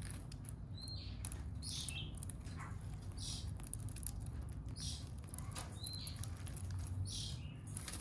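Faint, short high chirps from small birds every second or two, over a low steady rumble; the spotted dove is not cooing.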